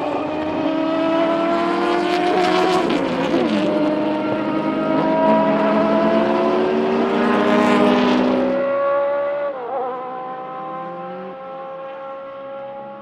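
Several classic racing sports car engines accelerating hard past the trackside together, their pitch climbing through the gears. About two-thirds through the sound drops suddenly, leaving quieter engines still pulling away, one with a quick dip in pitch at a gear change.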